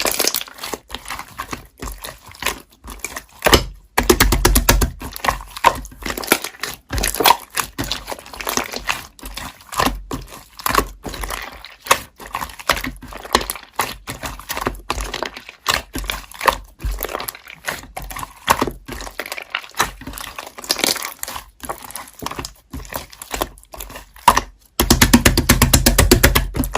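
Slime being squished and poked by hand, making a dense run of sticky pops and crackles, with a louder, faster stretch of crackling near the end.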